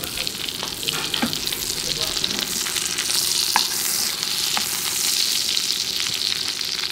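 Slices of foie gras searing in hot fat in a frying pan: a steady sizzle with a few light pops and clicks as a spatula turns them.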